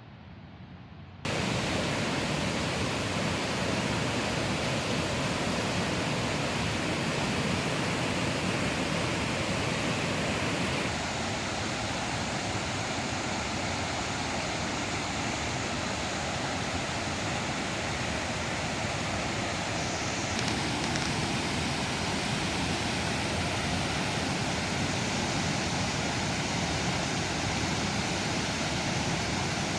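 Waterfall on the Snake River: a steady, dense rush of falling water that starts abruptly about a second in, its tone shifting slightly twice.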